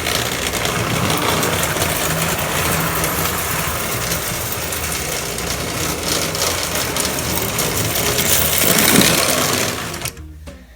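Toy train set's 4-4-0 locomotive running around the track, its motor whirring and the wheels rattling on the rails in a steady mechanical clatter. It cuts out about ten seconds in as the train stops.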